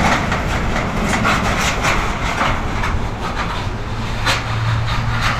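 Waves breaking on the beach with wind on the microphone: a continuous rushing noise with scattered short clicks and a faint steady low hum.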